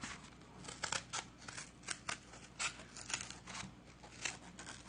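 Scissors cutting cardboard in a run of short snips, about two or three a second.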